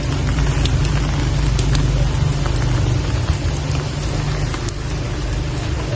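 Rain falling steadily, with scattered sharp ticks of individual drops over a low rumble.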